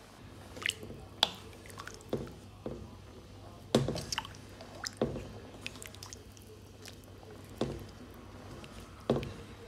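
Wet rice and chicken being stirred in a pot of just-added hot water, with a spoon knocking and clinking against the pot about nine times at irregular intervals.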